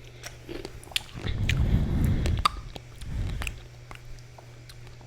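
Close-miked chewing of a mouthful of Nature's cereal (fruit in coconut water), with many small mouth clicks and two spells of heavier chewing, one about a second in and a shorter one around three seconds.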